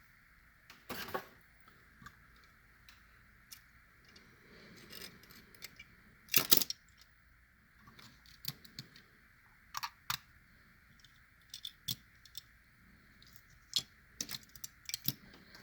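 Scattered small clicks and taps of 1/64 scale diecast toy cars and their plastic packaging being handled, the loudest a sharp click about six and a half seconds in. A faint steady high whine runs underneath.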